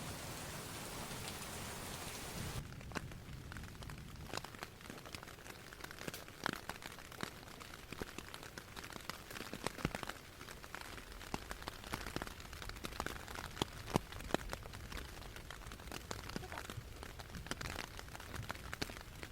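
Heavy rain falling, with many sharp, irregular drop taps close by over a steady hiss; the sound changes character about two and a half seconds in.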